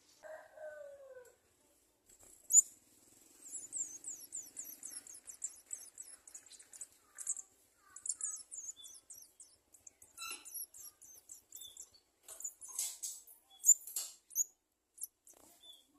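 Garden sunbird nestlings begging with many rapid, very high-pitched cheeps, thickest near the end, with a few sharp clicks among them. A short falling call is heard at the very start.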